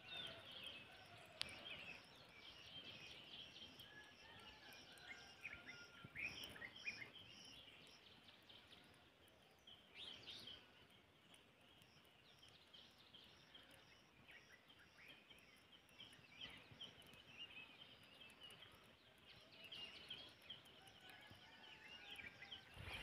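Faint outdoor birdsong: several birds chirping and calling, with a high note repeated evenly for several seconds in the first part.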